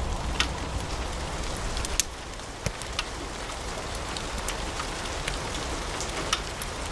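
Wood fire crackling in a fireplace: irregular sharp pops and snaps over a steady hiss of burning logs, with louder pops about two seconds in.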